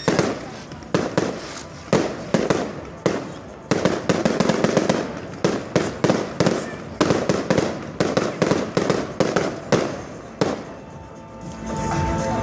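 Fireworks barrage: a rapid volley of sharp bangs and crackling shots, several a second, that dies out about ten seconds in.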